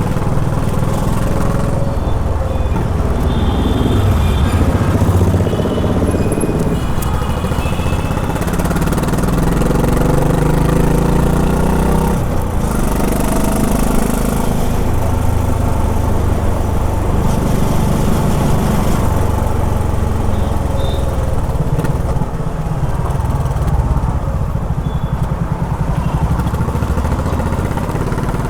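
Honda H'ness CB350's single-cylinder engine running as the motorcycle is ridden in city traffic, its note rising and falling with the throttle.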